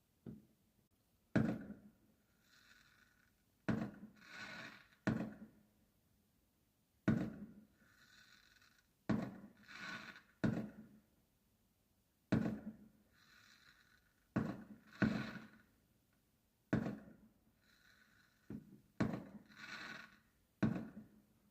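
Fireworks going off: a series of sharp bangs every second or two, several followed by a quieter crackling burst.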